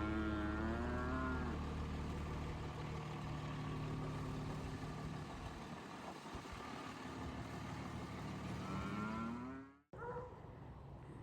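Beef cattle mooing: one call right at the start and a second, rising call near the end, over a steady low engine hum. The sound cuts off abruptly shortly before the end.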